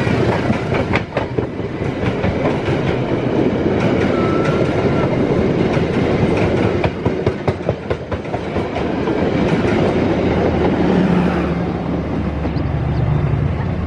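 Passenger train coaches rolling past close by: a steady rushing rumble with the clickety-clack of wheels over rail joints. The last coach goes by near the end.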